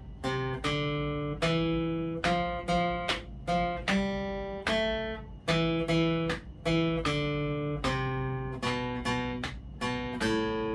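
Acoustic guitar playing a slow single-note melody exercise in C major (do-do, do, re, mi, fa-fa, fa, sol-la, mi-mi, mi, re, do, ti-ti-ti-ti, la, sol), picked note by note with alternating down and up strokes. Pairs of repeated notes alternate with short rests where the fretted note is released.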